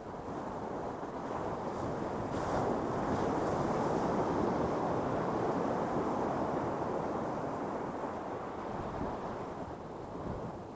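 Ocean surf: a wave breaking and washing up the beach, the rush swelling over the first few seconds and easing off near the end.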